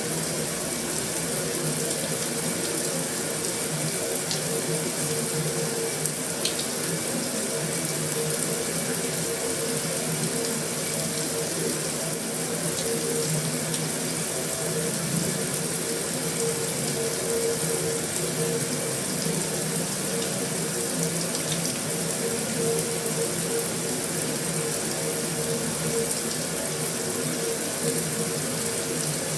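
Heavy rain falling steadily on a metal roof, an even hiss with a few faint ticks.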